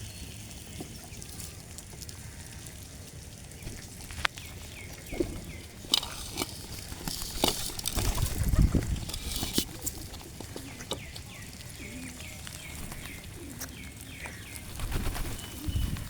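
Small birds chirping in a rapid repeated series of short calls, with scattered sharp clicks and a couple of bursts of rustling noise with a low rumble.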